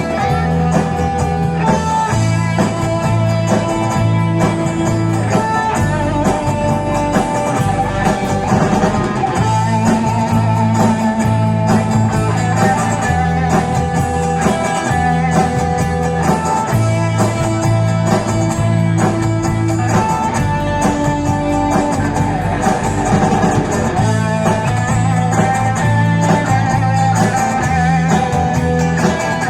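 Live band music: guitar playing over held bass notes and a drum kit, with the bass changing note every couple of seconds.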